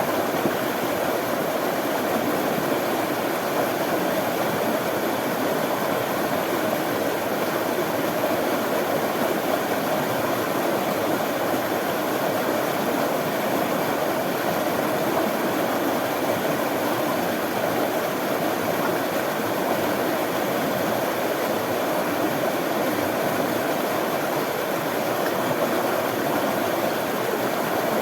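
Running water, a stream flowing in a steady, unbroken rush.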